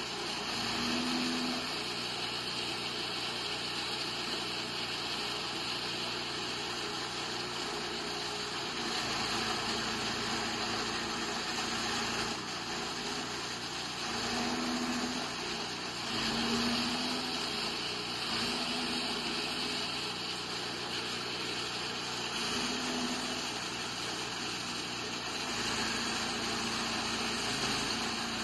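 Chaff cutter machine running steadily: a continuous mechanical hiss with a low hum that swells and fades every second or two.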